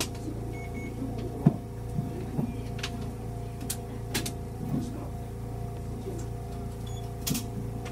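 Chikuho Electric Railway train standing at a station, its onboard equipment giving a steady electrical hum. Scattered clicks and knocks sound over it, the loudest about a second and a half in.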